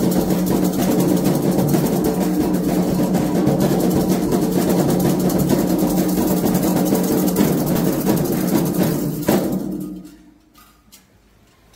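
Candomblé atabaque drums playing a fast, dense rhythm that stops abruptly on a final stroke about nine seconds in.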